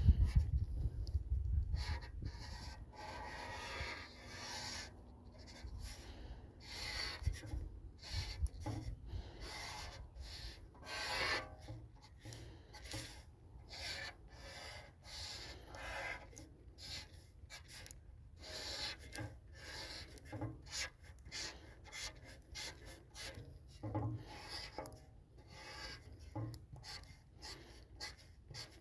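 A hand-written graffiti tag: a marker rubbing and scraping across a surface in many short, irregular strokes, with a faint low wind rumble underneath.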